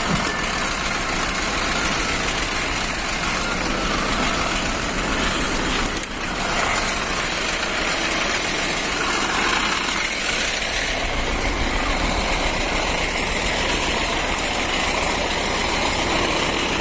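Diesel engine of a Nissan Diesel (UD) PK260 tractor head idling steadily, with a brief dip in level about six seconds in.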